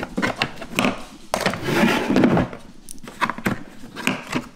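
Plastic clicks and knocks as a HART 2-gallon wet/dry vacuum is opened, its latches unclipped and the motor head lifted off the canister. A longer scraping rustle comes in just after a second.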